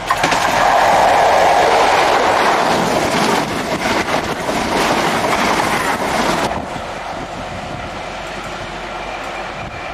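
InterCity 125 High Speed Train passing close at speed: a loud rush of wheels on the rails and running gear, which cuts off suddenly about six and a half seconds in. A quieter, steady noise follows.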